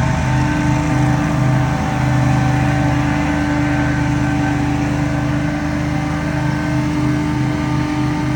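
Scag Windstorm stand-on leaf blower's engine and fan running steadily at high speed. A strong steady drone with a low pulsing throb runs underneath.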